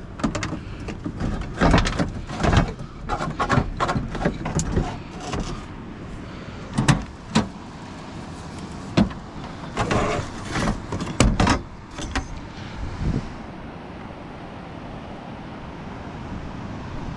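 Handling the poles and fittings of a truck-bed pop-up camper shelter: a run of irregular knocks, clanks and rustles for about twelve seconds, which stop, leaving a steady faint background hiss.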